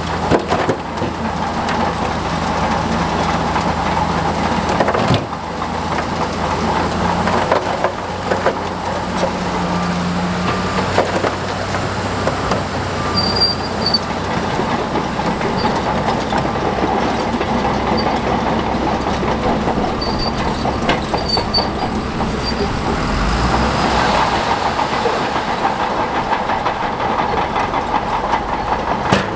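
Crawler bulldozer working: its diesel engine running under a dense, continuous clanking and rattling of steel tracks.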